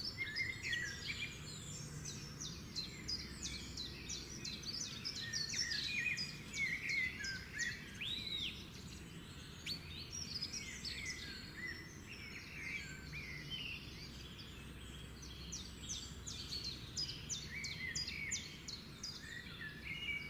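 A dense chorus of many birds chirping and calling at once, with quick high chirps, whistles and short rising and falling notes overlapping, over a steady low background rumble.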